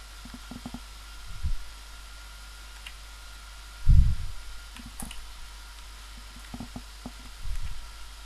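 Mouse clicks and soft desk thumps at a computer, three dull thumps with the loudest about four seconds in and small clicks between, over a faint steady electrical hum and whine.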